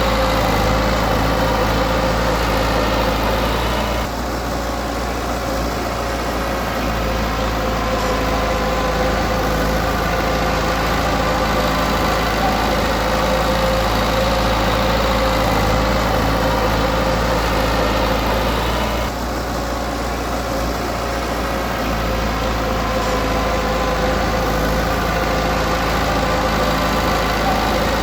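Diesel engine of heavy earthmoving equipment running steadily under load. Its level drops suddenly about four seconds in and again about two-thirds of the way through, building back up over the next few seconds each time as the throttle or load changes.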